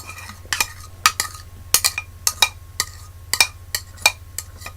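A fork clinking and scraping against a dish as the last bits of spaghetti are gathered up: a run of sharp, irregular clinks, about two or three a second.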